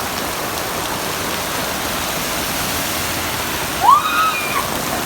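Heavy rain pouring with a steady rush of running water. About four seconds in, a short high voice cry rises and then holds briefly.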